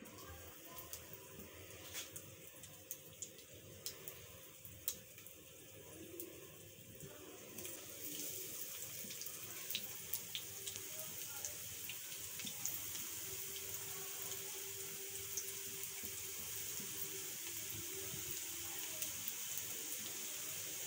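Breaded chicken nuggets shallow-frying in medium-hot oil in a nonstick pan: a steady sizzle with scattered pops and crackles. It grows louder about seven seconds in as more nuggets go into the oil.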